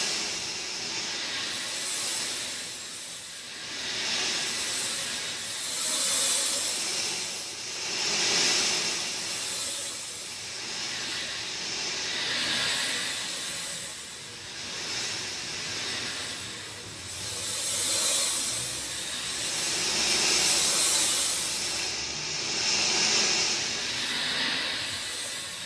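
Steady rain falling, a dense hiss that swells and fades every couple of seconds.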